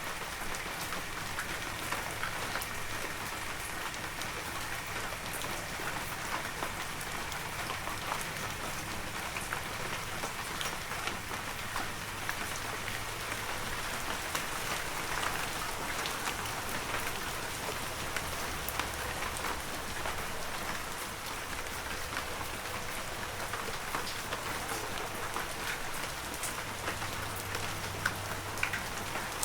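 Heavy rain falling steadily, an even hiss dotted with many sharp ticks of individual drops striking.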